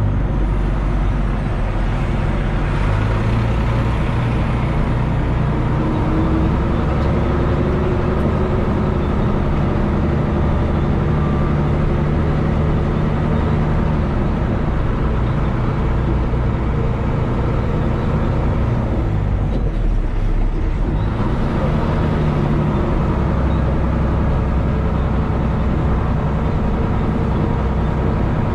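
Heavy diesel engine of a dump truck or earthmoving machine running steadily, its engine speed rising and falling a few times.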